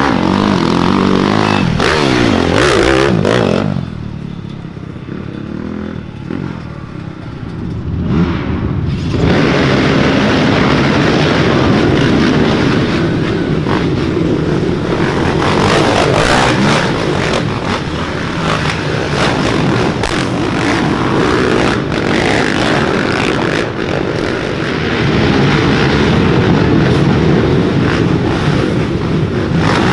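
Dirt bike engines revving hard, the pitch rising and falling through the gears in the first few seconds. It drops quieter for a few seconds, then steady loud engine noise resumes from about nine seconds in.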